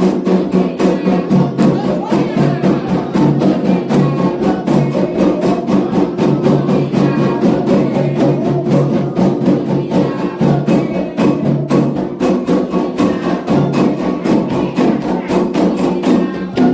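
Candomblé atabaque drums playing a fast, dense rhythm with a struck bell, under group singing of a song for Iemanjá. The music cuts off suddenly at the very end.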